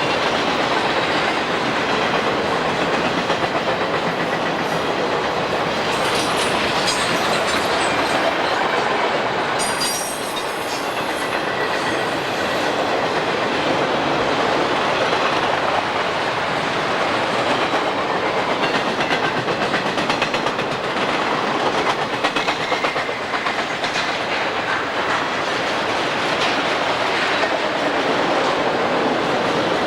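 A train rolling past at trackside, its cars clicking steadily over the rail joints, with a brief high-pitched metallic streak about ten seconds in.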